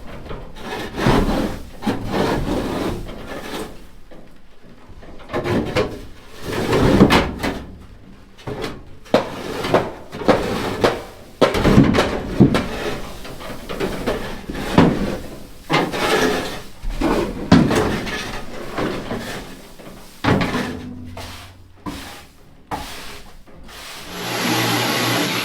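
Broom sweeping out a livestock trailer floor, a series of irregular scraping strokes. A steady machine noise starts near the end.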